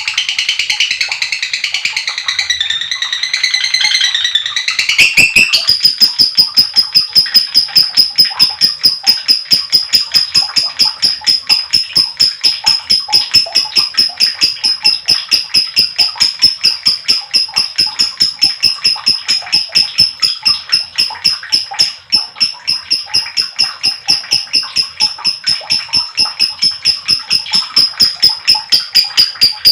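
Lovebird calling: a few seconds of varied twittering chirps, then from about five seconds in a long, fast, unbroken string of shrill repeated notes, the lovebird's long 'ngekek' chatter.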